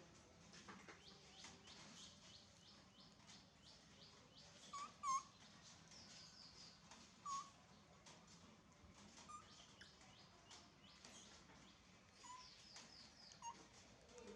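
Baby monkey crying: a run of short, high-pitched squeaks, broken by a few louder pitched cries, the loudest about five seconds in.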